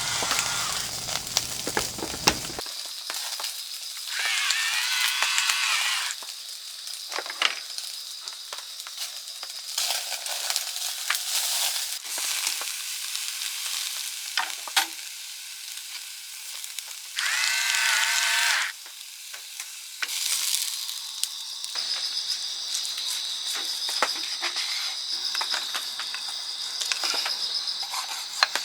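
Tomahawk steak sizzling and crackling over a charcoal grill, with a steady hiss and many small pops. A short wavering tone sounds twice, and a steady high buzz joins in the second half.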